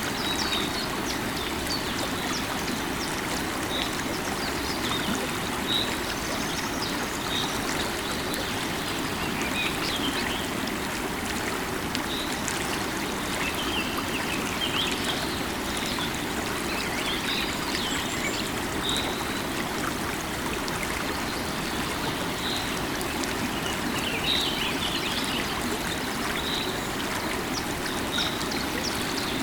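River water running steadily. Over it a bird repeats a short high note about every second and a half, while other birds chirp here and there.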